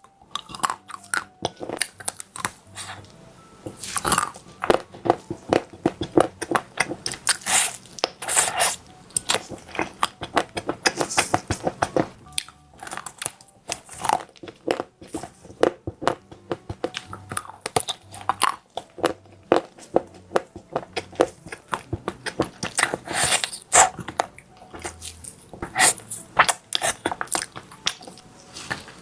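A person biting into and chewing crispy chocolate-coated food, a dense run of loud crunches and crackles one after another.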